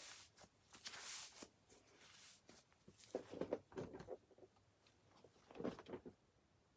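Faint rustling, scraping and small clicks of trading cards and their packaging being handled, in a short hiss about a second in and two brief flurries of clicks later on.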